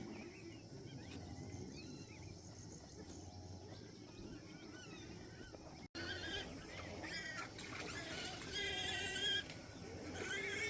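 Farm animals calling: several loud, high-pitched cries in the second half, over faint chirping in the first half.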